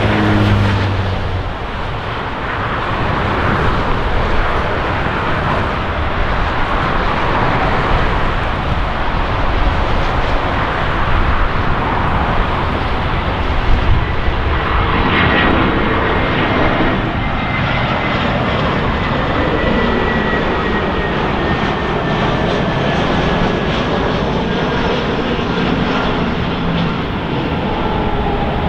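Airbus A320 airliner's jet engines on landing approach: a loud, steady rumbling rush, with a thin high whine that appears about halfway through and slowly falls in pitch.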